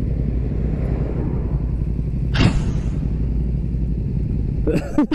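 Yamaha MT-07 motorcycle's parallel-twin engine running steadily under way, heard as a low rumble with wind noise, with a sudden brief rush of noise about two and a half seconds in.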